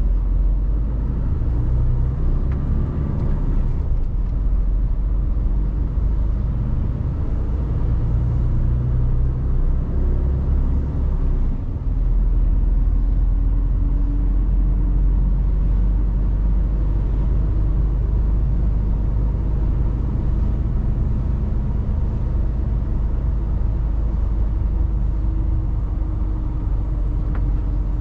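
Mercedes Actros truck driving: a steady deep engine and road rumble, with a shift in the low rumble about twelve seconds in and a slow climb in engine pitch after that.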